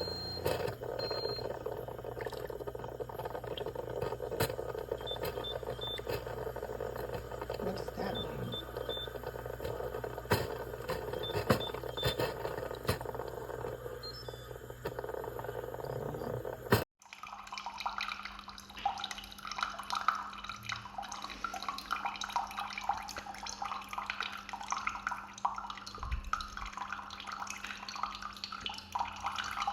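Instant Solo single-serve coffee maker malfunctioning. First come clicks, handling noise and a few short high beeps. After a sudden break about 17 s in, hot water sputters and drips out of the machine over a steady low hum, a sign that it is spitting water instead of brewing.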